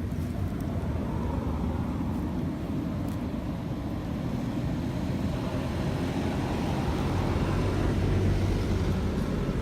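Steady low rumbling noise, growing slightly louder near the end.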